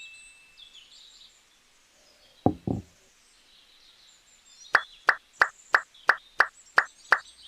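Two soft knocks, then a quick run of about nine sharp, evenly spaced taps, roughly three a second.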